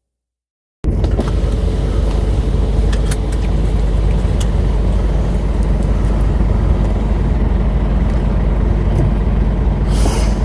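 About a second of silence, then the steady low rumble of a lorry's engine and road noise heard from inside the cab, with a few short clicks and rattles.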